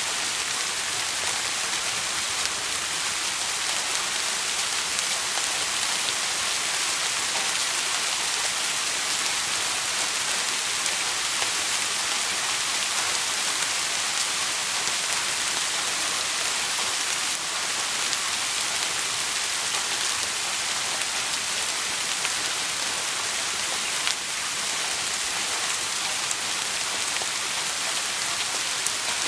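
Steady rain falling on a surface, a dense even hiss, with a couple of faint brief ticks along the way.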